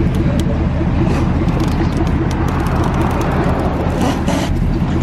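An engine running steadily at idle, a loud low hum with a light regular pulse.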